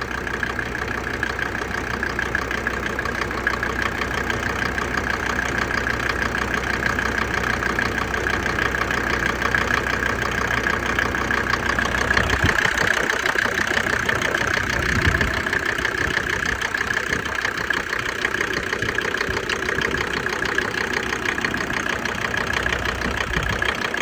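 Mercedes OM605 five-cylinder diesel idling with a steady diesel clatter, its glow plugs just switched off. The low hum drops away about twelve seconds in while the clatter carries on.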